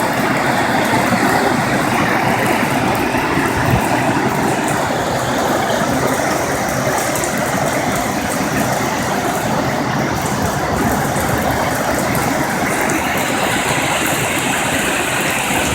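Torrential rain pouring down, with runoff water rushing over the ground, heard as a steady, loud noise.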